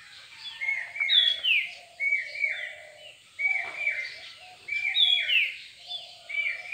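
Birds chirping: a steady run of short calls, each falling in pitch, about two a second.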